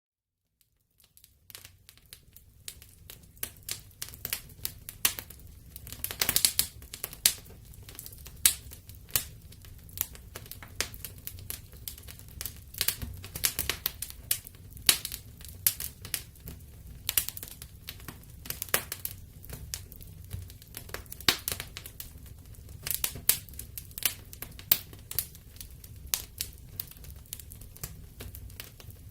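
Wood logs burning in a fireplace, crackling with irregular sharp pops over a low steady rumble of the flames. The sound fades in over the first second or two.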